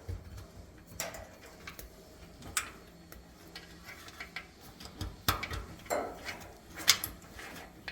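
Scattered light clicks and knocks of wiring and parts being handled inside a dryer cabinet, a few sharper taps in the second half.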